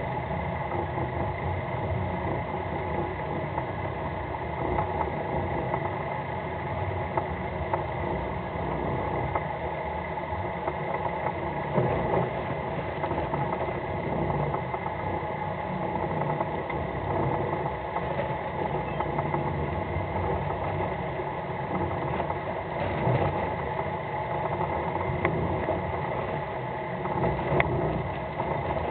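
Fishing boat's engine running steadily, under wind noise.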